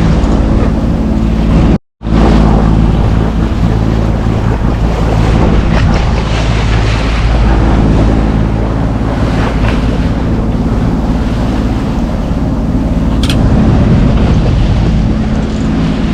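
A sailing yacht under way in a sloppy sea: a steady low engine drone under wind buffeting the microphone and water rushing past the hull. A brief total dropout cuts in about two seconds in.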